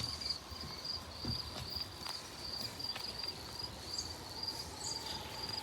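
Insects chirping in a high, evenly pulsed trill, about two or three pulses a second.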